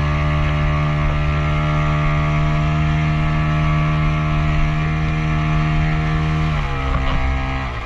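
Motorboat engine running steadily at speed while towing a banana boat, then easing off with its pitch dropping in two steps near the end as the throttle is cut back.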